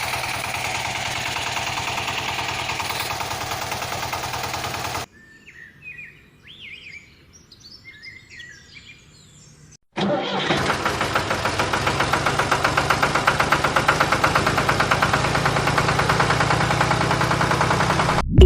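A small motor running with a fast, even pulse, cut off abruptly about five seconds in. Birds chirp during a quieter gap, and then the motor sound cuts back in louder.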